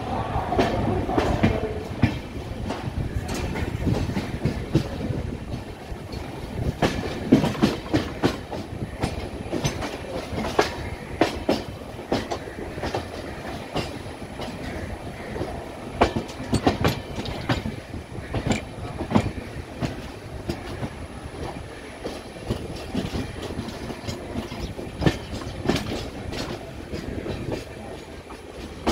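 Passenger train running, heard from on board: a steady rumble with irregular sharp clacks as the wheels cross rail joints and points.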